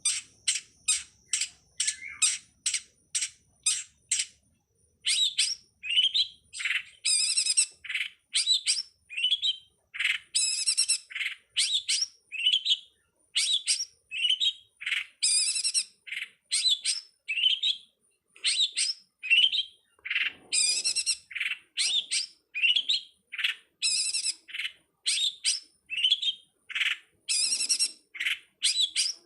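Long-tailed shrike (pentet) singing: a fast, unbroken run of short, sharp chirping notes, about two or three a second, with a brief pause about four seconds in and a few rougher, harsher notes later on.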